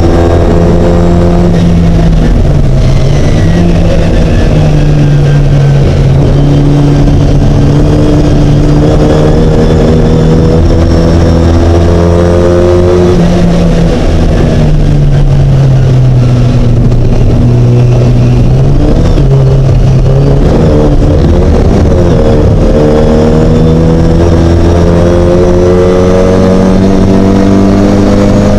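Racing Mini's engine running hard under load, its note climbing slowly and dropping back several times as it goes through the gears, with a rougher patch about two-thirds of the way through.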